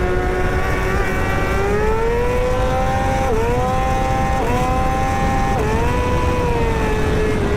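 Motorcycle engine under way, its pitch climbing and then dropping sharply three times as gears are shifted, before easing off slowly, over a steady rumble of wind and road noise.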